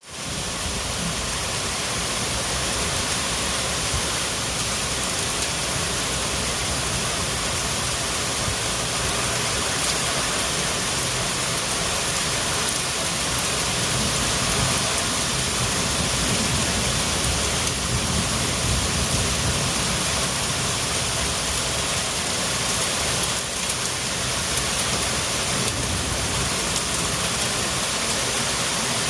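Heavy rain pouring steadily in a storm.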